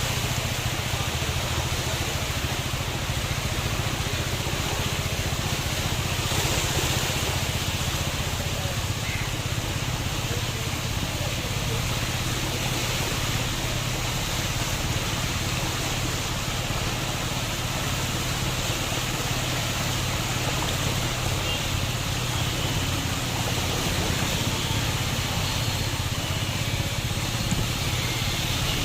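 Steady running noise of a moving vehicle: a constant low hum under an even rushing sound.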